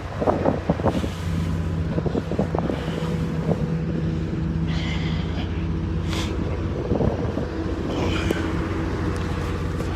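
A motor vehicle's engine running nearby with a steady low hum, over wind buffeting the microphone. A few short knocks in the first second.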